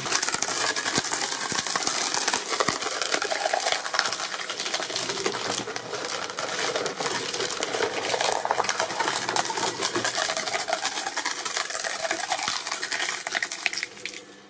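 Shredding machine breaking up hard, brittle material: a dense, continuous stream of cracks, clinks and rattling.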